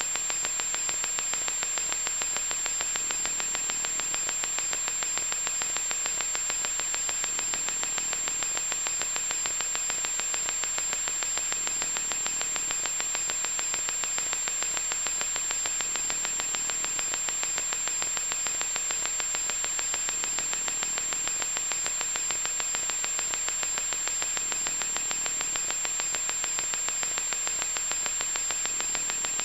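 Loud electronic static: a steady hiss, brightest in the upper-middle range, with a fine crackle and a thin, high steady whine on top.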